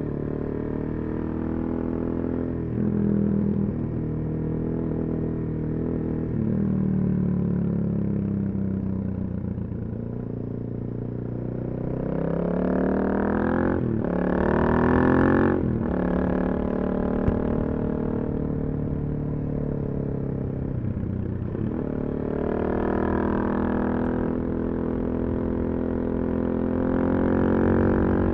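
Suzuki DRZ400SM's single-cylinder four-stroke engine through a full Yoshimura exhaust, heard from the rider's seat. It runs and revs up and down through the gears, climbing hard twice about halfway through with a quick shift between, and rising again near the end.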